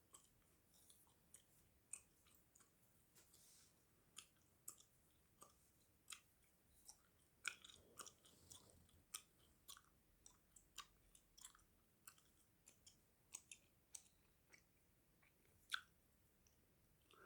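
Chewing gum: faint, irregular mouth clicks, about one or two a second.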